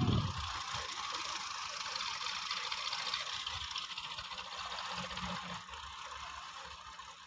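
Diesel tractor engine running hard with a steady clatter, a low thump right at the start, fading somewhat near the end.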